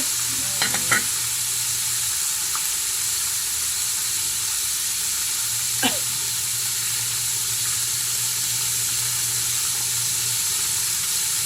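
Chicken frying in hot oil: a steady sizzle, with a few light clicks about a second in and a brief sharp sound near six seconds.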